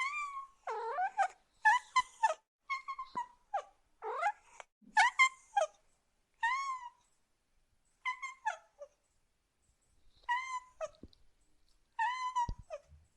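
Domestic cat meowing: a series of about a dozen short meows, crowded together at first and then coming a second or two apart.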